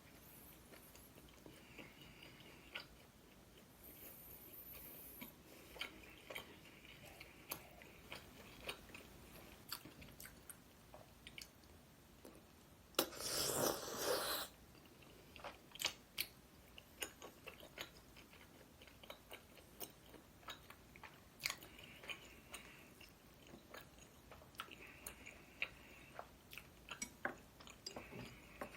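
Close-miked chewing and biting of food, with many short, crisp crunches and mouth clicks. A louder noisy burst of about a second and a half comes near the middle.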